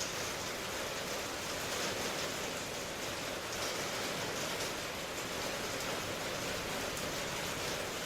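Steady rain: an even, unbroken hiss with no change in level.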